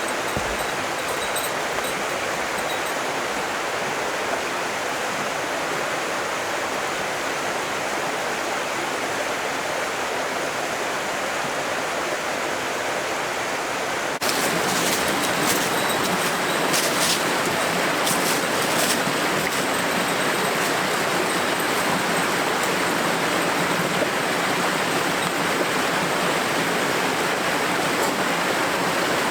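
Steady rushing of running water. It jumps abruptly louder and brighter about halfway through, followed by a few faint clicks.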